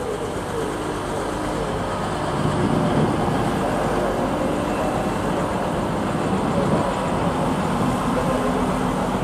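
TransPennine Express Class 185 diesel multiple unit passing close by, its diesel engines running under the rumble of wheels on the track.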